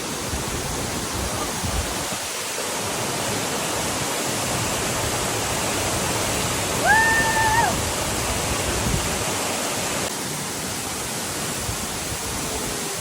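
Waterfall: a steady rush of falling water. About seven seconds in, a brief high tone, under a second long, sounds over it.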